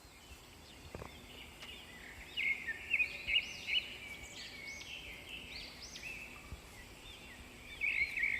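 Birds chirping in a series of short, arching calls from about two seconds in, over a faint steady background noise.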